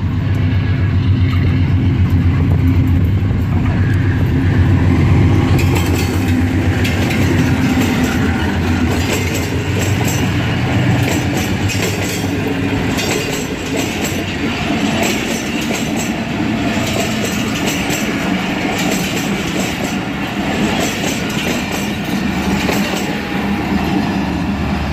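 GE AGE-30 diesel-electric locomotive pulling away under power with a deep engine drone, which fades after about ten seconds as the passenger coaches roll past with wheels clicking over the rail joints.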